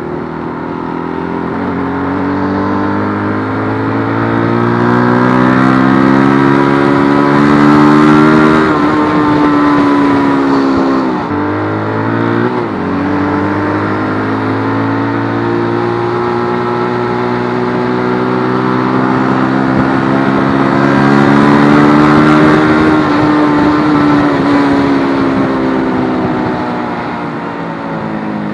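Keeway RKF125 125 cc motorcycle engine under way, its pitch climbing steadily as it revs up and then falling away. About twelve seconds in there is a brief sharp dip before it pulls up through the revs again, then it eases off near the end.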